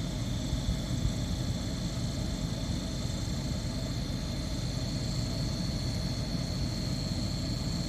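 Steady low rumble of an idling vehicle engine, with a faint steady high-pitched tone above it.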